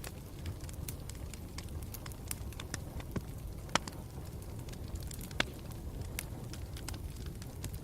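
Wood campfire burning with a steady low rumble and frequent irregular crackles, with two louder pops about four and five and a half seconds in.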